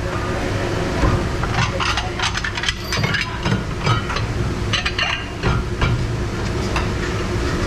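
Plates, cups and silverware clattering in quick irregular knocks over the steady rumble of a commercial dish pit, with hot water and the dish machine running.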